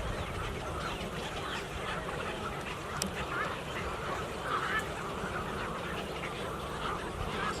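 A large flock of birds calling all at once, many overlapping calls blending into a continuous chorus, with a single sharp click about three seconds in.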